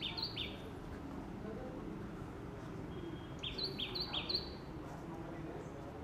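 A bird chirping in quick runs of short, high, repeated notes, about three a second: one run stops about half a second in, and another of three notes comes about halfway through.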